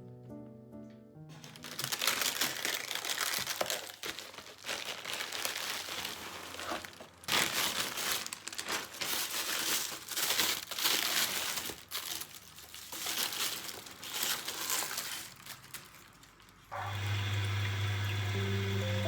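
Crinkling, rustling handling noise with small crackles, coming in uneven swells for about fifteen seconds. Piano music stops about a second in and comes back near the end.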